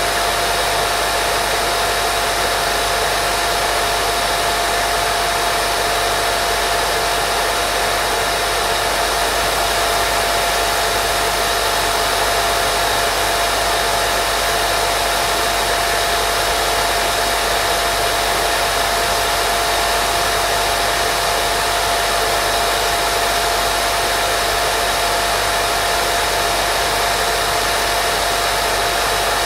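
Steady, loud white noise for baby sleep: an even, unbroken hiss weighted toward the higher pitches, with a faint steady tone running through it.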